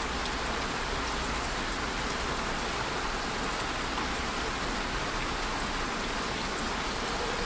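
Steady rain falling, a constant patter of drops on a surface with scattered sharper drop ticks.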